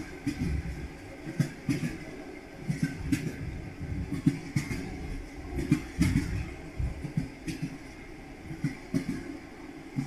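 Railway carriage wheels clacking over rail joints, a steady rumble broken by pairs of low knocks about every second and a half.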